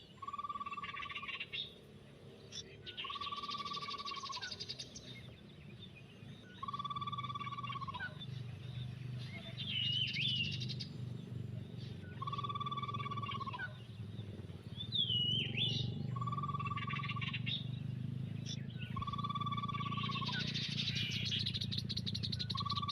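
Birds calling: a flat whistled note, about a second long, repeated every few seconds, with higher chirps and buzzy calls between the notes.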